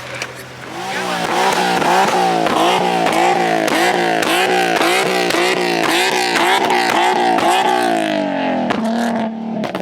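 Car engine revved hard in quick repeated throttle blips, about two a second, with sharp exhaust pops and crackles. Near the end it drops back to a steady idle.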